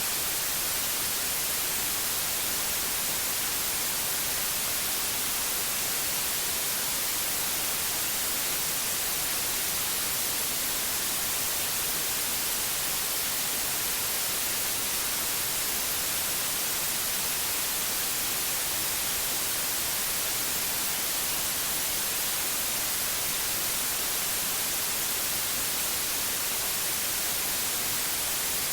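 Steady white noise: an even, unbroken hiss, strongest in the high frequencies, with no change in level.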